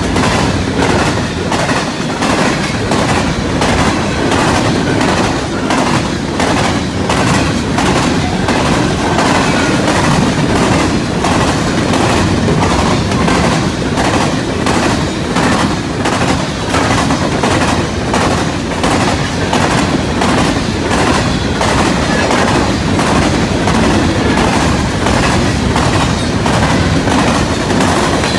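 A CN mixed freight train rolling past, its wheels clacking steadily over the rails in an even, repeating rhythm of about two clicks a second.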